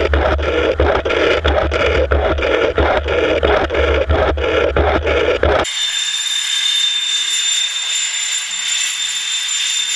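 Train wheels running over the rails at close range: a heavy, steady rumble with regular clicks, about three a second. About six seconds in it cuts off suddenly to a thinner, steady high whine with no rumble.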